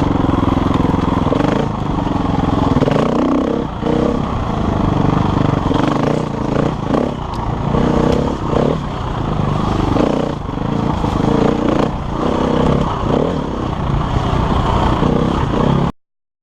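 KTM enduro motorcycle engine being ridden on a trail, revs rising and falling repeatedly with short drops as the throttle is opened and closed, with some clatter. The sound cuts off suddenly near the end.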